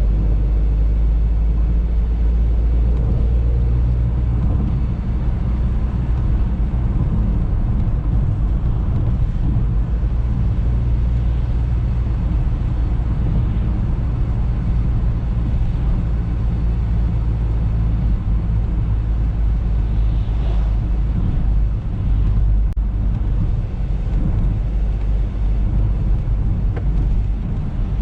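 Audi A3 on the move: a steady low rumble of engine and road noise, with a few faint ticks about two-thirds of the way through.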